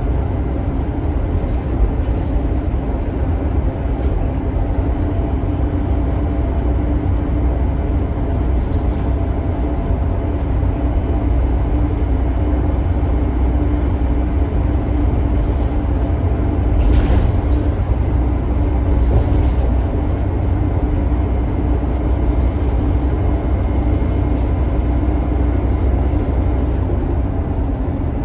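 Scania K280IB bus's 5-cylinder DC9 turbo diesel running steadily, a deep even rumble with a steady drone, and a brief hiss about two-thirds of the way through.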